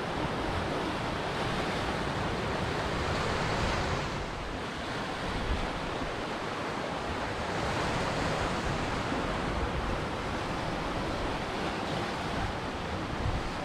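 Ocean surf washing onto a shore, a steady rushing wash of waves that eases briefly about four seconds in and builds again.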